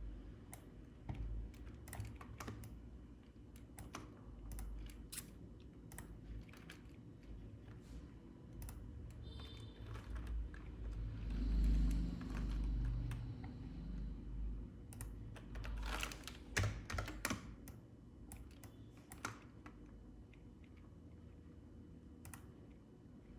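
Irregular computer keyboard typing and clicks, with a low rumble about twelve seconds in.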